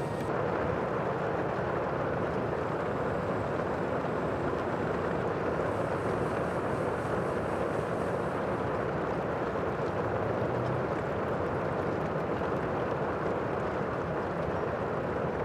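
Sea ambience: a steady rushing wash of water noise with no distinct wave breaks.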